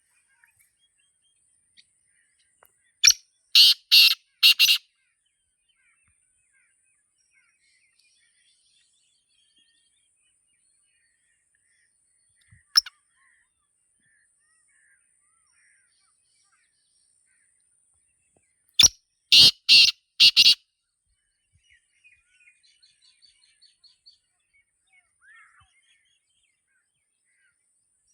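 Black francolin calling: two bouts of about five quick, loud notes each, roughly fifteen seconds apart, with a single short note between them. Faint chirps of small birds follow near the end.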